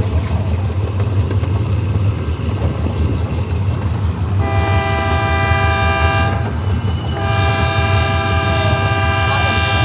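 Amusement-park train running with a steady low rumble, and its horn sounding two chord-like blasts: a short one about halfway through and a longer one near the end.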